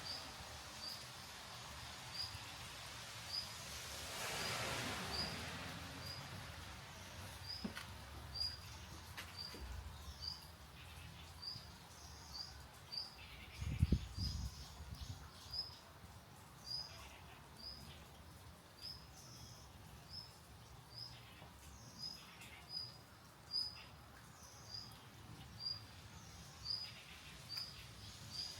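A bird calling a short, high chirp over and over at an even pace, about every two-thirds of a second, over a steady faint hiss. A single low thump about halfway through.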